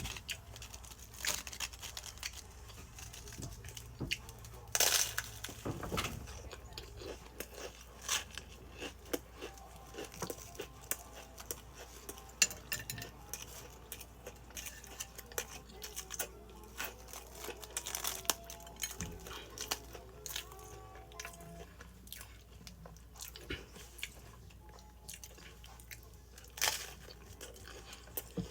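A person chewing and crunching stacked potato chips close to the microphone, with many short sharp crunches and clicks scattered throughout, the loudest about five seconds in.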